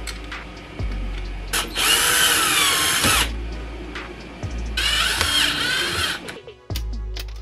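Cordless drill/driver driving a screw into a 3D-printed plastic part, in two bursts of about a second and a half each. Its motor whine bends in pitch as it loads up.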